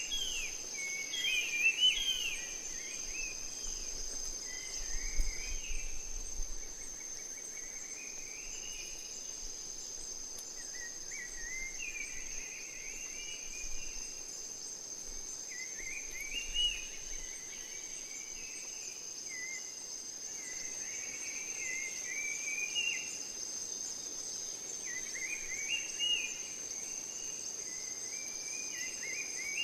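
Nature ambience: a steady, high-pitched insect drone, with short warbling bird-song phrases repeating every few seconds over it.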